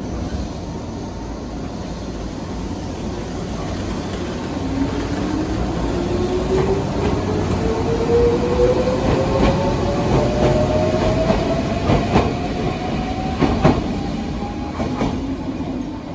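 Electric train accelerating, its motor whine rising steadily in pitch, with a run of wheel clacks over rail joints that grow louder toward the end, the sharpest about thirteen seconds in.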